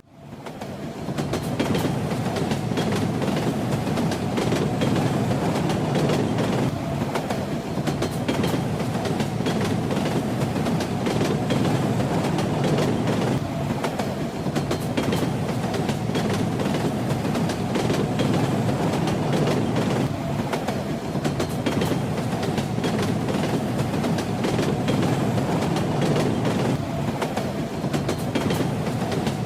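A train running on rails: a steady rumble of the moving railcar, with the wheels clacking over rail joints in pairs every several seconds. The sound fades in over about a second at the start.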